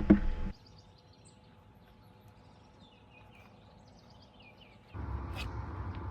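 Faint bird chirps during a quiet stretch, after a knock at the start; a steady rushing noise with a click comes in near the end.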